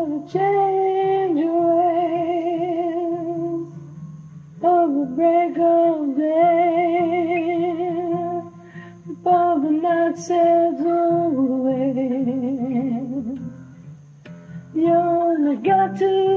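A solo voice sings long held notes with vibrato in four phrases, with short pauses between them, over a steadily strummed acoustic guitar.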